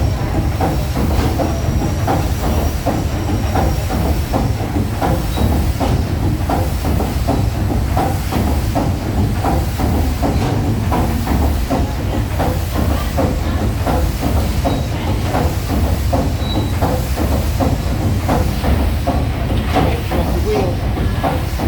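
The paddle steamer Waverley's triple-expansion steam engine running under way: a steady low rumble and hiss of steam with regular mechanical knocks about twice a second as the cranks turn.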